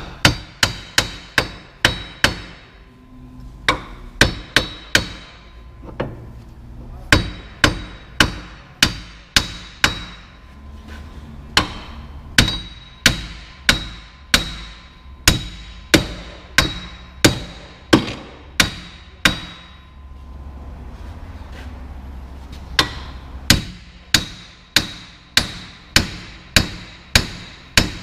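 A hammer striking metal again and again, each blow ringing, in runs of several strikes about one and a half a second with short pauses between runs. This is hammering on the front wheel bearing assembly during a bearing replacement.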